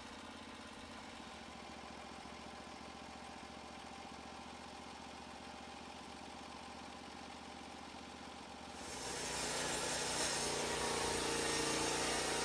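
Engine of a portable band sawmill running steadily, growing louder and fuller about nine seconds in.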